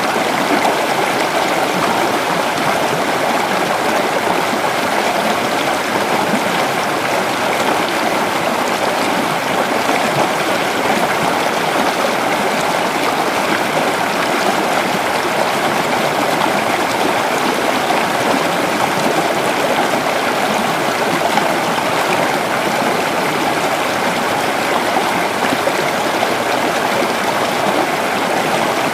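Creek water flowing and babbling over rocks, a steady, unbroken rush.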